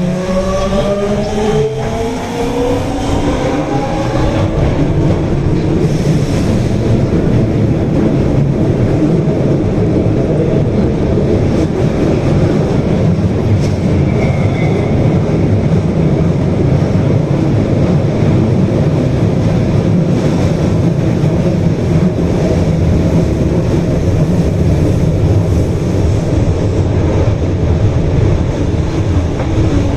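Osaka Metro Tanimachi Line subway train accelerating: the motors' whine of several tones rises in pitch over the first few seconds, then gives way to the steady rumble of the train running through the tunnel.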